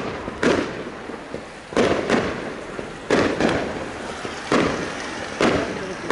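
Fireworks display: aerial shells bursting in a string of sharp bangs, about eight in six seconds at uneven spacing, each trailing off in a rolling echo.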